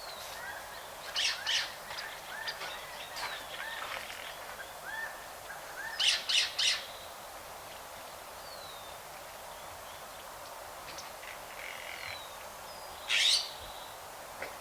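Flock of farm birds calling: a run of short chirps through the first half, with loud harsh squawks twice about a second in, three in quick succession around six seconds, and once more near the end.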